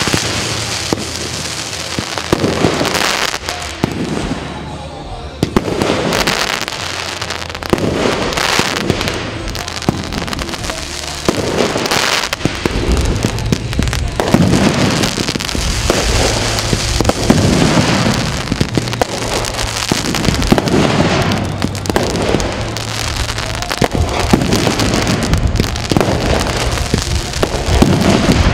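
Aerial fireworks going off in a continuous barrage: many bangs and crackling bursts in quick succession, over a steady low hum.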